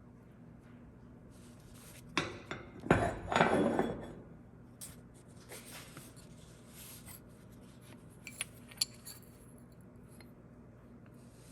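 Steel pieces being handled, knocking and clattering against each other and against metal. A loud run of clanks comes about two to four seconds in, then a few lighter clinks near nine seconds.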